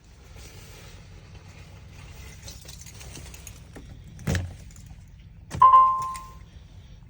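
Keys jangling and rustling, a single thump about four seconds in, then a loud short electronic tone lasting under a second.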